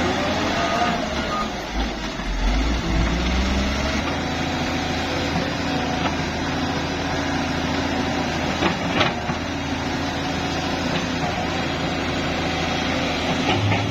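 Heavy diesel earthmoving machinery running steadily, its engine note shifting a little in the first few seconds, with a few sharp clanks about nine seconds in.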